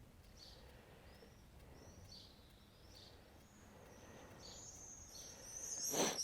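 Birds singing: short high chirps that sweep downward, repeating every second or so, turning into a busier, louder run of song near the end. A sharp click about six seconds in.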